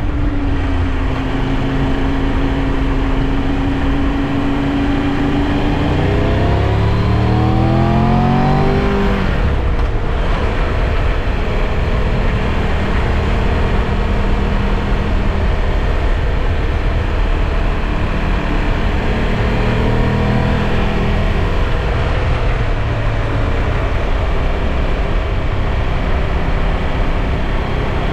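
Triumph Tiger 1200 Rally Pro's three-cylinder engine heard while riding, over heavy wind and road rumble. The revs climb a few seconds in and drop sharply near ten seconds in, then the bike cruises steadily and eases off around twenty seconds in.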